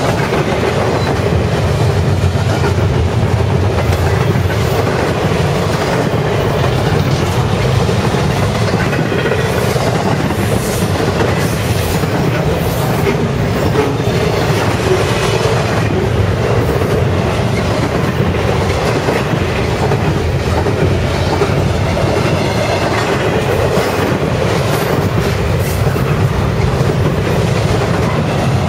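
BNSF double-stack intermodal container train passing close by at speed: the steel wheels of its well cars roll on the rail with a loud, steady noise and clatter that holds unbroken throughout.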